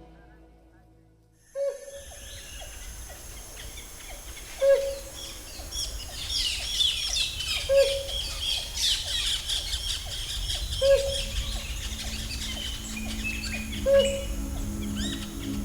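Helmeted hornbill calling in rainforest: loud, short, hollow hooting notes spaced about three seconds apart, over a dense chorus of high chirps from other birds. The hooting starts about a second and a half in, after near silence.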